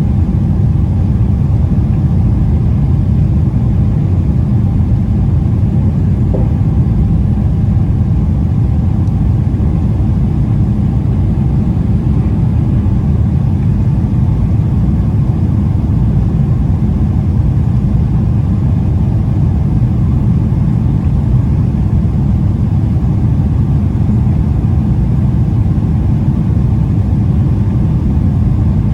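Jet airliner heard from inside the cabin during takeoff: a steady, loud low rumble of engines and airflow that holds level throughout.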